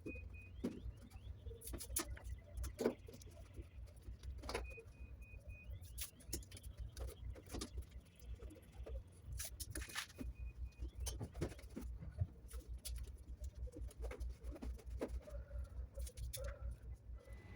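Irregular clicks and crackles of adhesive tape being pulled off the roll and pressed around a metal chimney pipe, over wind buffeting the microphone.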